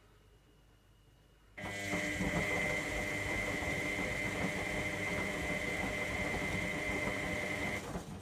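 Electra AWF683 washing machine's motor turning the drum during the wash tumble: after a quiet pause, it starts abruptly about a second and a half in with a steady high whine over the churn of the load, runs about six seconds, and stops near the end.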